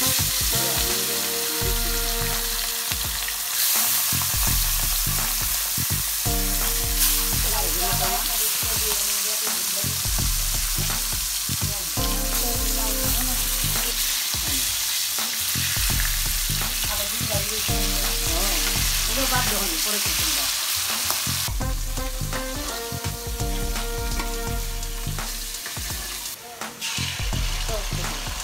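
Whole hilsa fish shallow-frying in hot oil in a wok: a steady sizzle. Near the end, beaten egg batter sizzles as it is poured into hot oil.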